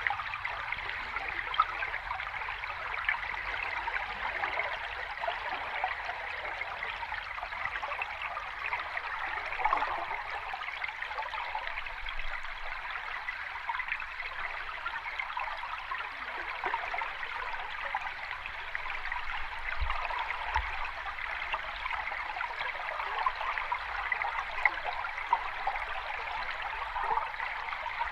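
Running water of a small cascade, a steady splashing and trickling with no deep roar.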